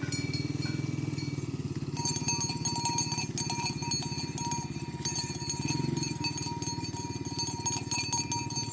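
Cowbells on walking cattle jangling and clinking, thickening about two seconds in, over a steady low engine hum.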